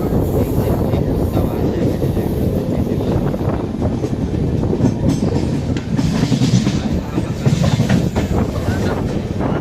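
Passenger train running along the track: a steady rumble with scattered sharp clicks from the wheels.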